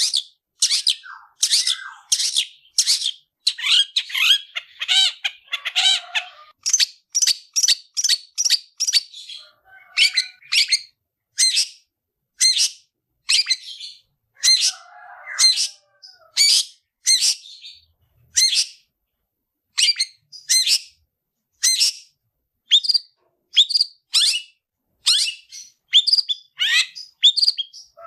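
Long-tailed shrike (cendet) singing in an excited, combative way: a long run of sharp, harsh high notes, about one or two a second, with a few softer chirps underneath.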